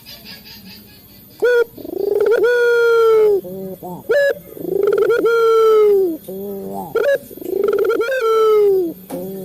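Male puter dove (turtle-dove) cooing close up: three times over, a short sharp note, then a long drawn-out coo, then a few short rolling notes, after a quiet first second or so.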